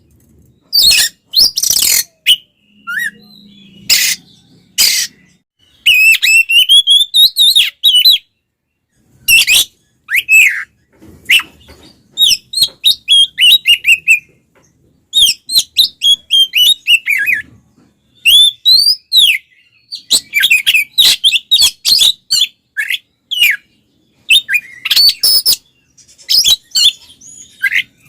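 Oriental magpie-robin singing loudly in full song: fast, varied phrases of sliding whistled notes mixed with harsh, rattling chatter, broken by short pauses.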